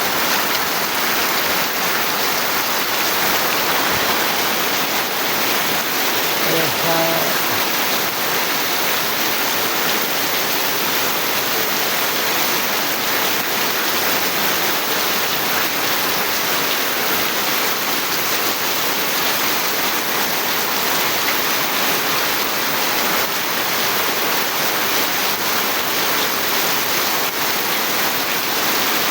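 Steady heavy rain, an even hiss that does not change. A brief pitched sound stands out about seven seconds in.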